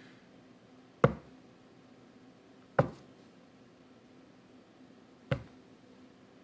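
Three sharp thumps in a small room, roughly two seconds apart, over a faint steady hum.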